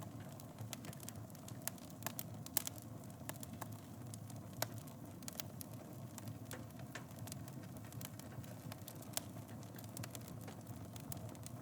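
Wood fire burning in a fireplace: a steady low roar of flames with frequent irregular crackles and a few louder pops.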